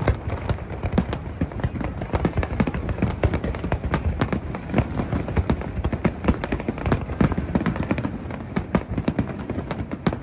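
Aerial fireworks going off in a rapid, continuous barrage: many sharp bangs and crackles, several a second, over a steady low rumble of bursts.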